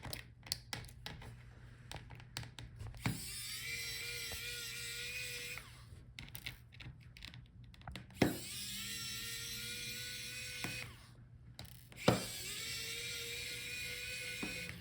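Electric precision screwdriver whirring as it backs out small laptop screws: three runs of about two and a half seconds, each spinning up at the start. Small clicks and taps from the screws and the tool fall in the gaps between the runs.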